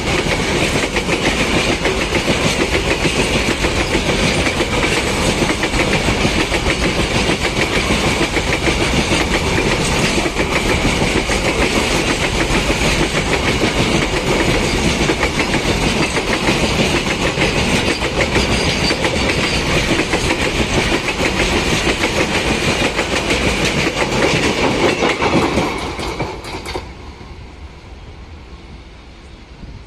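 Train passing over a rail bridge, its wheels running with a loud, continuous rapid clatter. About 26 seconds in the sound drops off quickly and fades as the train moves away.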